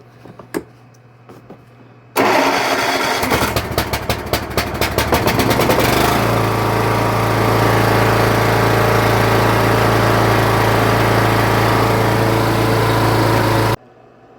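Cub Cadet LTX1045 lawn tractor engine starting about two seconds in, running unevenly for a few seconds as fuel reaches it after the fuel shutoff has been opened, then settling into a steady run. It cuts off suddenly near the end.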